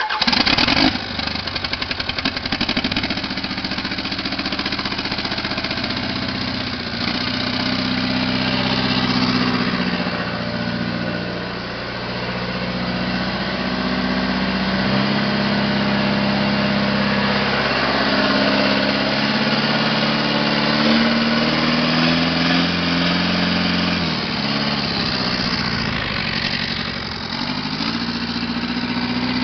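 Caterpillar 3114 four-cylinder diesel engine catching right at the start, then running steadily on a test run, its speed rising and falling a little several times.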